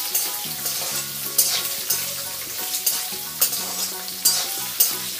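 Peanuts and green chilli pieces sizzling in hot oil in a metal kadhai, being fried until crisp. A perforated metal spoon stirs them, scraping and clicking against the pan every second or so.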